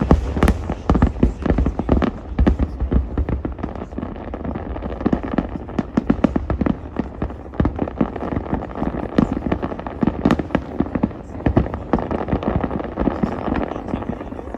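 Aerial fireworks display going off in rapid succession: a dense run of sharp bangs, with the heaviest low booms in the first couple of seconds.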